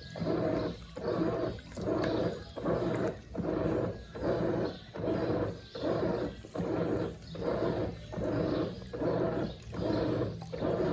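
Brastemp Eggo 1 kg mini washing machine agitating a wash load: the motor drives the washer back and forth in even strokes, about three every two seconds, each stroke a humming churn through the water.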